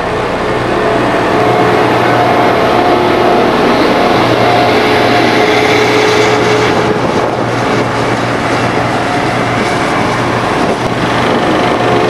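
Heavy diesel road-construction machine running steadily, a steady whine over the engine noise, its level building over the first couple of seconds.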